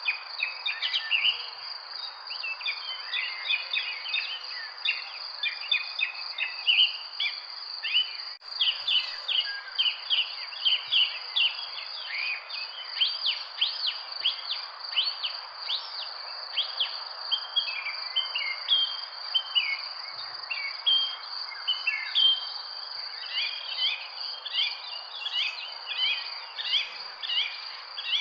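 Many small birds chirping and calling in quick, overlapping phrases over a continuous high-pitched insect drone and a steady outdoor hiss, with a momentary break in the sound about eight seconds in.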